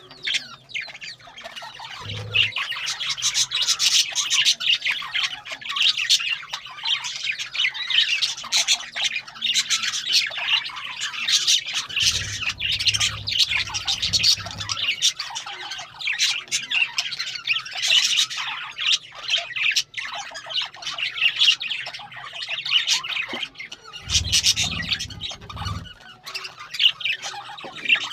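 Many birds squawking and chirping at once, a dense chorus of short, sharp calls that never lets up. A low rumble comes in briefly about two seconds in, again around twelve to fifteen seconds, and again around twenty-four to twenty-six seconds.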